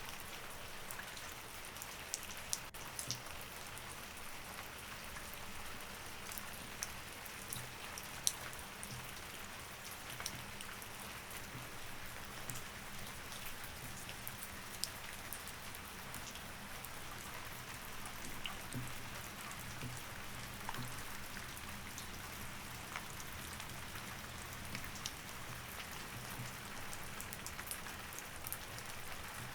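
Steady rain, an even hiss with scattered sharp drop hits over it, and a faint low hum underneath.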